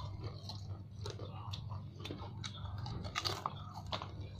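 Close chewing of crunchy food, a run of short crisp crunches that sound like krupuk crackers being bitten and chewed. A steady low hum runs underneath.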